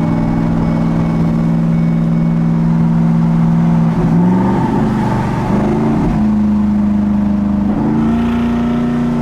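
Twin-turbo Ford F-150 engine and exhaust, heard from inside the cab while driving with the exhaust in sport mode. It holds a steady drone for about four seconds, then its pitch steps and glides a few times as the revs change.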